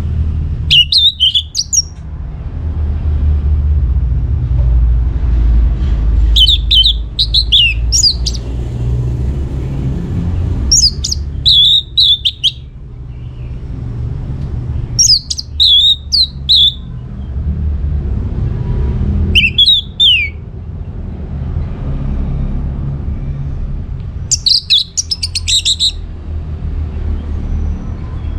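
Orange-headed thrush singing short, varied whistled phrases, six of them spaced four to five seconds apart, over a steady low rumble.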